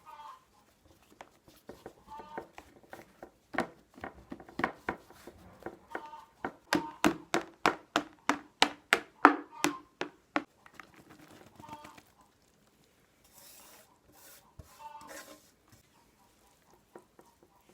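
Kitchen work sounds: scattered knocks and handling noise, with a run of sharp, evenly spaced knocks at about four a second in the middle.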